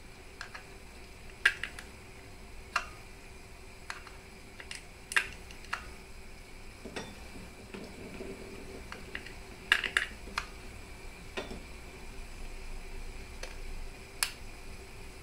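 Irregular light clicks and taps of hard kitchen items being handled, a dozen or so over the stretch, some with a brief ring, over a faint steady hum.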